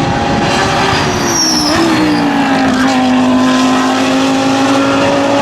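GT race car engine at high revs, its pitch dropping over a couple of seconds and then holding steady.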